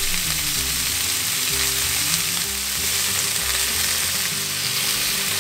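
Diced potatoes and sliced onion sizzling steadily in hot oil in a frying pan, stirred with a spatula.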